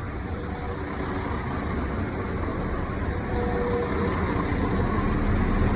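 Two-car-set Class 172 Turbostar diesel multiple unit approaching, its low engine and wheel rumble growing steadily louder, with faint steady tones coming in near the end.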